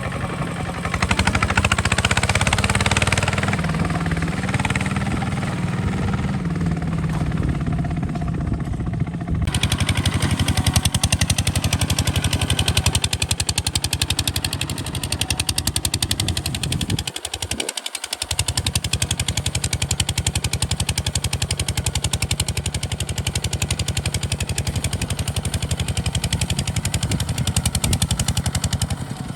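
Single-cylinder diesel engine of a Kubota RT 140 DI walking tractor running with a rapid, steady chugging beat. The sound dips briefly about two-thirds of the way through.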